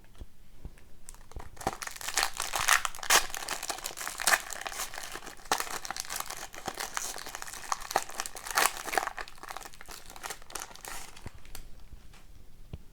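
Crinkling and tearing of a hockey card pack's foil wrapper being handled and opened, dense and irregular, thinning out about two seconds before the end.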